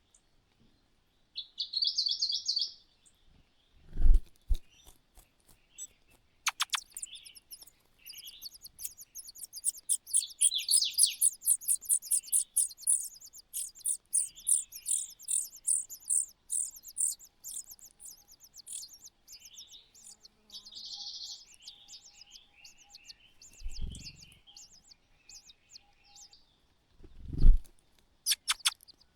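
Small birds chirping in high, thin calls, with a long fast run of repeated chirps, a few a second, from about eight to eighteen seconds in. A dull low thump comes at about four seconds, and two more near the end.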